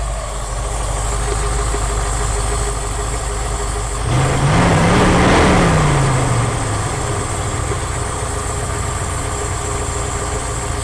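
1980 Ford F100's 302 V8 with a two-barrel carburetor idling steadily. About four seconds in, a louder engine sound swells and fades over roughly two seconds, rising then falling in pitch.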